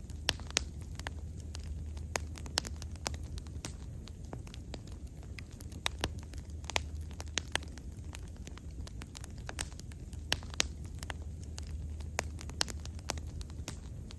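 Wood fire burning, with irregular sharp pops and crackles over a low steady rumble of the flames.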